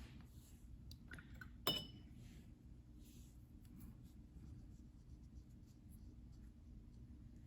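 Faint brush strokes on watercolor paper, with one sharp clink about a second and a half in.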